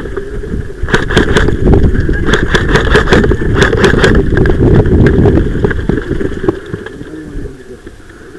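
Heavy wind buffeting and rumble on a body-worn camera microphone as a player runs, with irregular clicks and knocks of gear and footsteps from about one to four seconds in. The rumble dies down about six seconds in.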